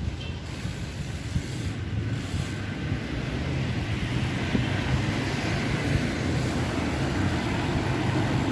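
Steady low rumble of wind buffeting and road noise, slowly growing louder.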